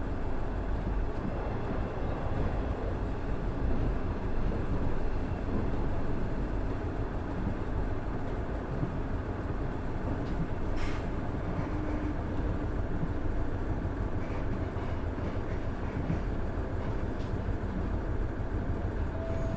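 Running noise inside a KiHa 110 series diesel railcar with its Cummins DMF14HZA engine, a steady rumble of engine and wheels on the rails as the car travels along the line. A brief sharp noise cuts through about eleven seconds in.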